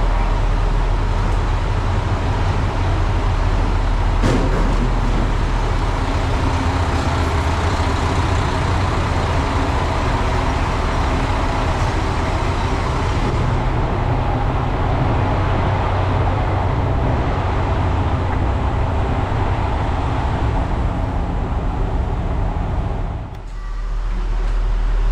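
KiHa 185 series diesel railcar's engines running at idle: a steady low hum under broad mechanical noise, with a single knock about four seconds in.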